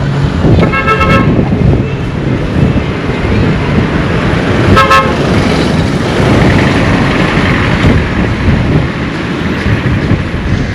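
Road traffic running past, with a vehicle horn tooting twice: once about half a second in and a shorter toot about five seconds in.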